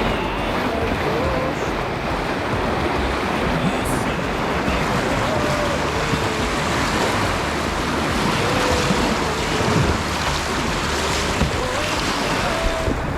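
Rushing river water of a whitewater rapid, a steady loud wash, with wind noise on the microphone.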